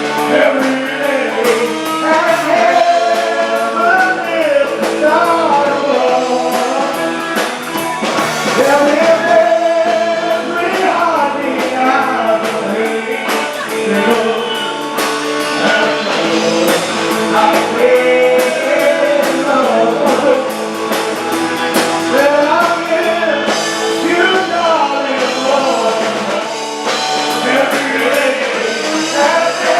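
Live band playing a song with a lead singer.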